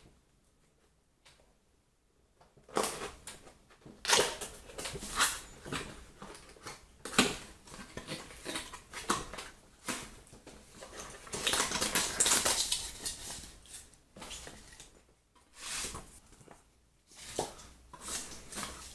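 A cardboard speaker box and its packing being opened and handled: irregular rustles, scrapes and knocks, beginning about three seconds in after a short quiet stretch.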